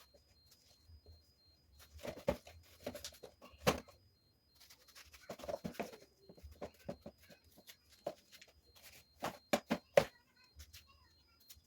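Groceries, bags and containers being handled by hand: scattered knocks and clicks, several sharp ones about a second in, near four seconds and around nine to ten seconds, with two short stretches of rustling.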